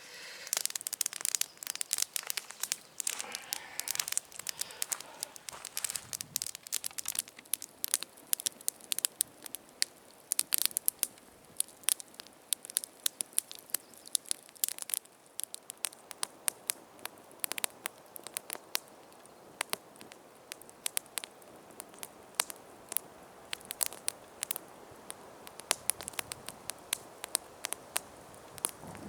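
Wood campfire crackling with many irregular sharp pops, busier in the first few seconds, as it is burned up to make coals.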